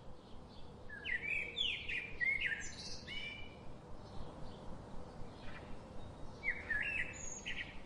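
Small birds chirping in short, quick twittering phrases, in two bouts: one starting about a second in and lasting a couple of seconds, and another near the end.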